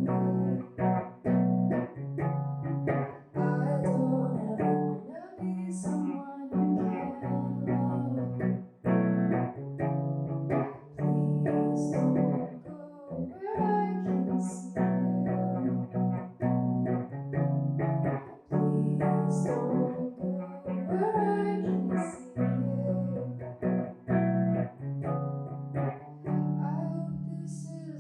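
A singer-songwriter singing a song live, accompanied on guitar, with a steady rhythm of guitar notes under the voice.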